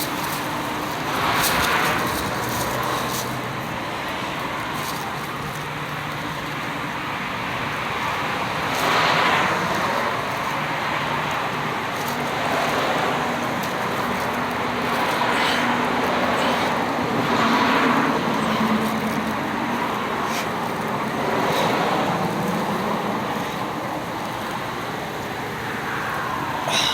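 Road traffic: a steady hum with vehicles passing every few seconds, each swelling up and fading away.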